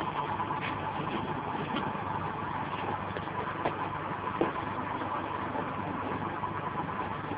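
Mini Cooper S engine idling steadily through its stock exhaust, an even note with no revving.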